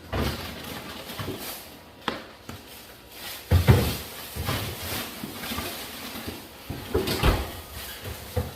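Groceries being put away in a refrigerator: a series of irregular knocks and thumps of packages, shelves and drawers, with rustling of packaging in between.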